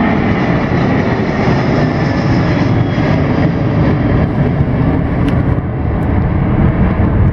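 Jet airliner engines heard from the ground as a loud, steady low rumble.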